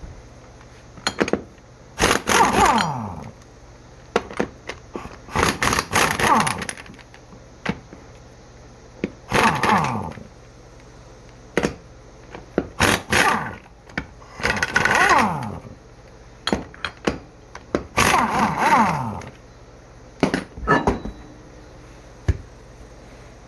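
A power tool runs in about six short bursts of roughly a second each, its pitch falling as it winds down every time. Short clicks and knocks come between the bursts, as a mower wheel is worked off.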